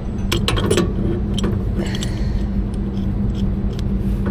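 Wrenches clinking on the steel gas-line fittings, a few sharp metallic clicks mostly in the first second, as a 90° elbow is worked loose, over a steady low mechanical hum.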